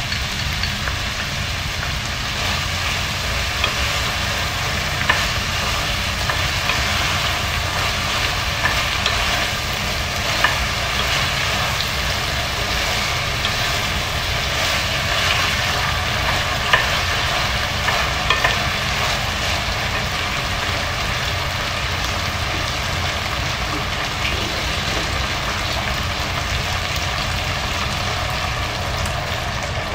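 Chicken feet sizzling in a pot of sauce as they are stirred with a wooden spoon, with scattered light knocks of the spoon. A steady low hum runs underneath.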